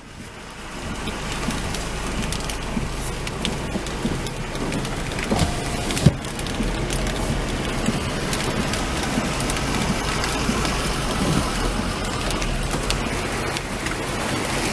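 Thunderstorm rain falling steadily, building to full strength about a second in, with two sharp knocks near the middle.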